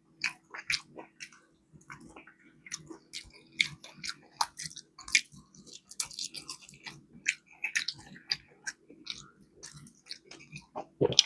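Chewing and biting into fried chicken wings with a crispy flour coating: an irregular scatter of small crunches and mouth clicks.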